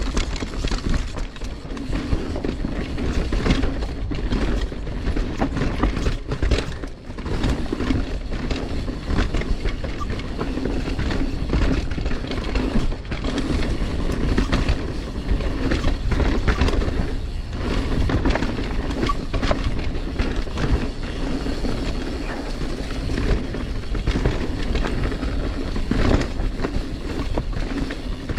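Mountain bike riding down a dirt trail: tyres rolling over rough ground under a constant low rumble, with many quick rattles and knocks as the bike runs over bumps.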